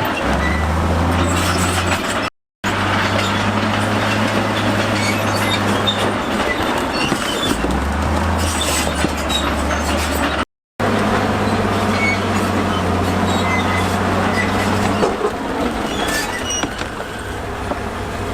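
Crawler bulldozer's diesel engine running, its low hum stepping up and down in pitch several times, with the steel tracks clanking and squealing. The sound cuts out completely twice for a moment.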